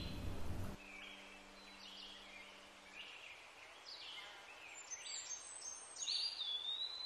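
Birds chirping and whistling, with short scattered calls and one longer whistle that rises then drops near the end, over a faint background hiss. A low steady hum underneath stops about three seconds in.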